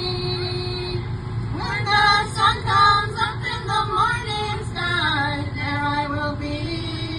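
A group of young women singing. High, bending vocal phrases come in about a second and a half in and stop about six and a half seconds in, with a steady held note before and after.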